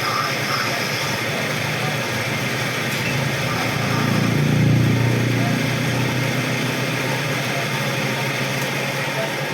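A motor running steadily, its low hum swelling louder about four to five seconds in.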